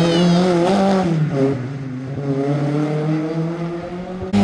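Rally car engine revving hard, its pitch dropping about a second in as it shifts gear, then fading steadily as the car pulls away down the stage; the sound breaks off in an abrupt cut near the end.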